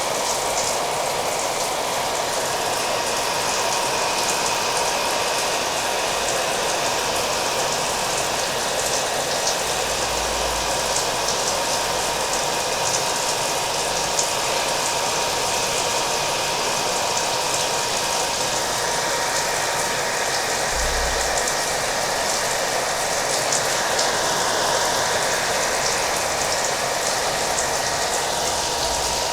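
A hair dryer running steadily, its motor giving a constant whine, mixed with the steady sound of falling rain.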